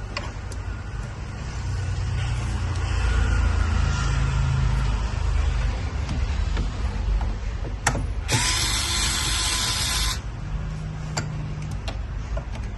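Small electric screwdriver whirring in spells as it drives screws in the PC's casing, with scattered clicks of screws and parts. About eight seconds in there is a loud hiss lasting nearly two seconds.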